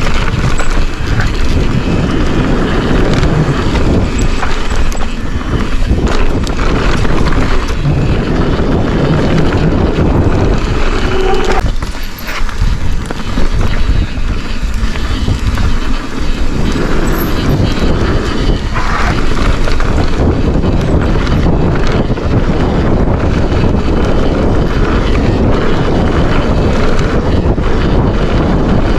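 Wind buffeting the camera microphone over the steady roar and rattle of a Forbidden Dreadnought mountain bike riding down a trail. The noise eases briefly about twelve seconds in.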